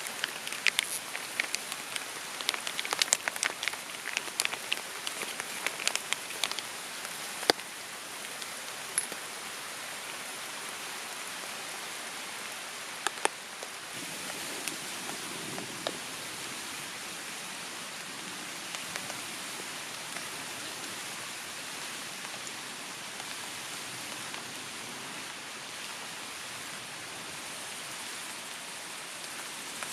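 Rain falling steadily as an even hiss. Many sharp drops strike close by in the first several seconds, then thin to a scattered few.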